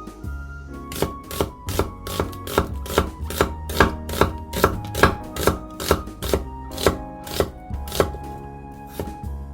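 Knife chopping on a cutting board: an even run of strokes, about two or three a second, starting about a second in and stopping near the end, over background music.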